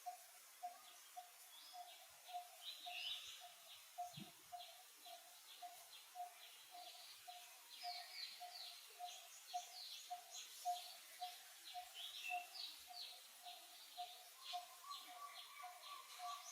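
Faint birdsong: many quick high chirps over a steady repeated lower note, about three or four a second. There is a soft low thump about four seconds in, and a held higher note joins near the end.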